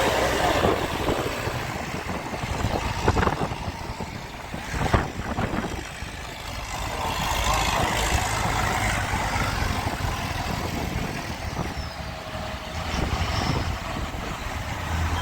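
Tractor engines running, with a sharp knock about five seconds in.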